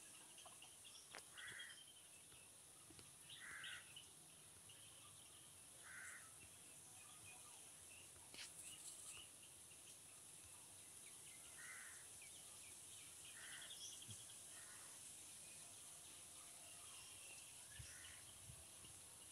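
Near silence: a faint steady hiss, with several faint short bird calls in the background now and then.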